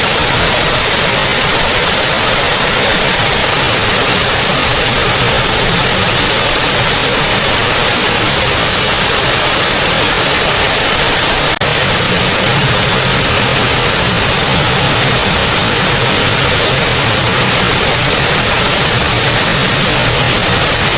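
Steady, loud rush of a small waterfall, an even hiss of falling water, with a momentary dropout about halfway through.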